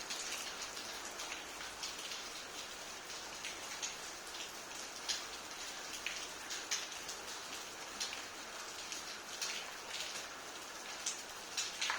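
Steady rain falling: an even hiss with scattered sharp drips striking a hard surface.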